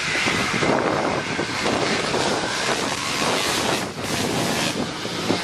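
Classic motocross motorcycles running on the track, a dense engine noise mixed with wind buffeting the microphone.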